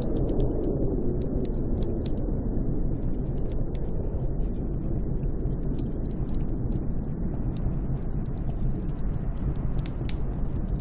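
Snowstorm wind blowing steadily with a low rumble, with scattered sharp crackling clicks over it throughout.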